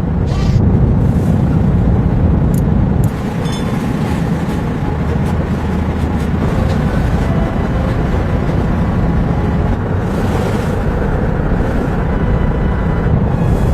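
Storm wind blowing hard in a snowstorm, a steady, dense low rumble.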